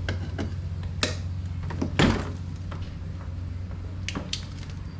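A hand tool swung as a makeshift hammer, knocking several times on the swamp cooler's metal parts. The loudest blow lands about two seconds in. A steady low hum runs underneath.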